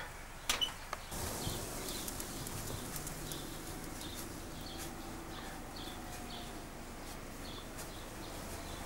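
Garden ambience: a bird chirping repeatedly in short calls, over a steady rush of wind on the microphone. Two or three sharp clicks about half a second in.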